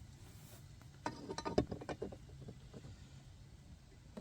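Cast iron sandwich cooker being handled as a pizza pocket is set into it: a quick run of light metallic clicks and knocks about a second in, then fainter handling ticks.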